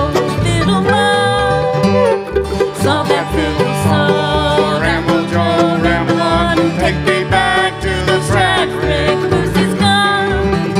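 Bluegrass band playing live: banjo picking over guitar, with a steady bass beat and a sliding melody line.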